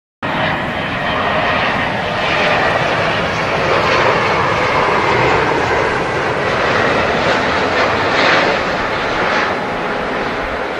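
Boeing 777-200 airliner's jet engines on arrival: a loud, steady roar with a thin whine through it, cutting in abruptly just after the start.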